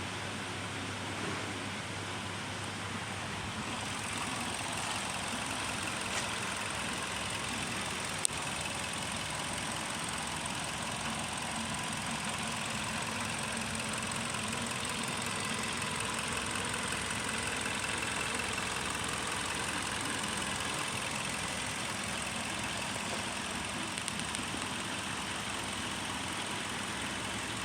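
Hyundai i30 engine idling steadily, with one brief click about eight seconds in.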